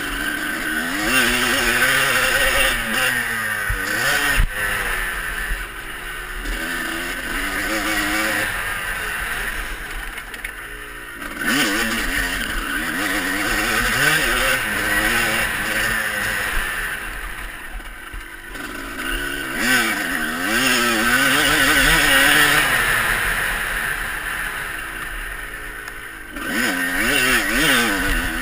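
Motocross bikes revving hard, their engine pitch climbing and falling again and again through gear changes. The sound fades briefly three times and builds back up.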